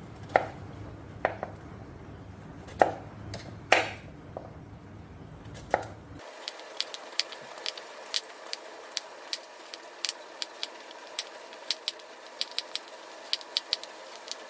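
Knife chopping on a cutting board: a few scattered knocks, then, after a change about six seconds in, quick steady chopping at about three strokes a second.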